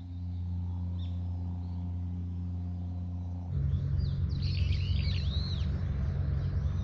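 A steady low hum, then about three and a half seconds in a louder low outdoor rumble, over which a small bird sings quick chirps that rise and fall in pitch.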